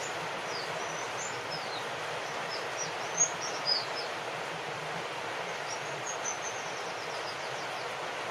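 Steady rain with birds chirping over it: short high chirps throughout, two louder ones about three and a half seconds in, and a quick run of notes near the end.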